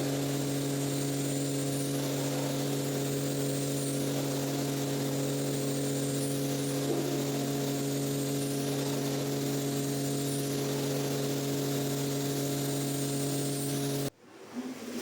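A cleaning machine's electric motor runs steadily with a low hum and a hiss, then shuts off abruptly near the end.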